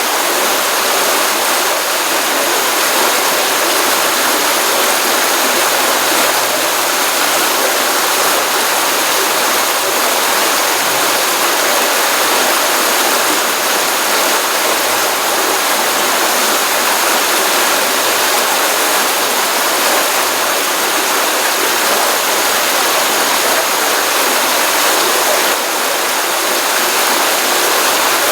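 Water running steadily in a pond-fed stream, a continuous even rush with no breaks.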